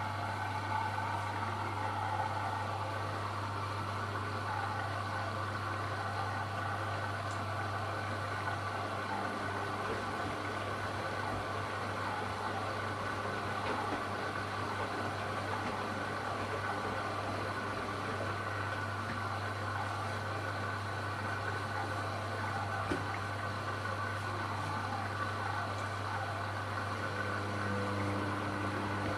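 AEG Lavamat Turbo washer-dryer running, giving a steady, unchanging mechanical hum.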